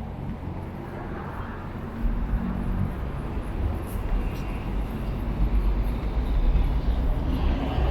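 City street traffic rumbling past, growing heavier about two seconds in.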